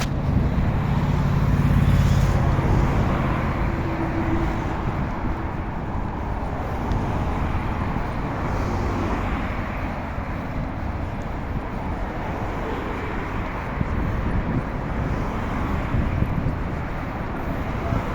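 Road traffic and wind noise heard from a moving bicycle, with a motor vehicle's steady low hum in the first few seconds.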